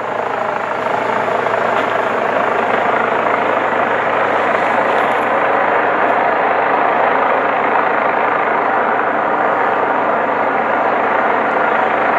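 Helicopter flying overhead: a loud, steady rotor and engine noise that swells over about the first second, then holds level.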